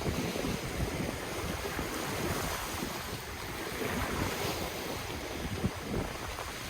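Ocean waves washing in a steady surf, with wind buffeting the microphone in low, gusty rumbles.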